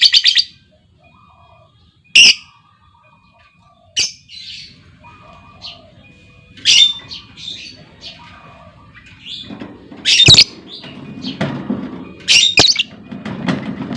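Lovebirds calling: a fast chattering trill cuts off just after the start, then loud sharp squawks every few seconds with softer chirps in between. A low rumble of background noise comes in during the last few seconds.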